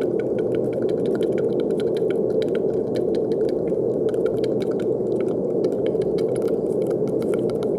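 Steady brown noise: an even, deep rushing hiss that does not change, with a scatter of faint quick crackling ticks over it.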